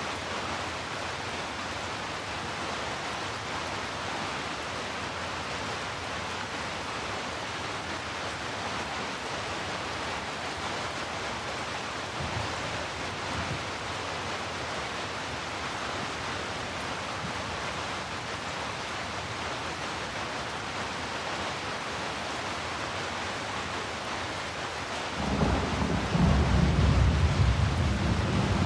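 Heavy rain falling steadily as a dense, even hiss. A faint low rumble swells briefly about twelve seconds in, and near the end a loud, deep rumble of thunder rolls in.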